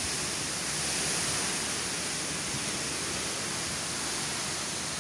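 Steady hiss of typhoon rain and wind.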